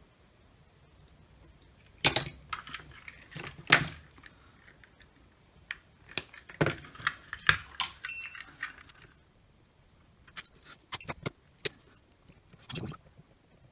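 Small tools and metal parts handled on a workbench during soldering work: irregular sharp clicks and light metallic clatter in bursts, the loudest two clicks about two and four seconds in.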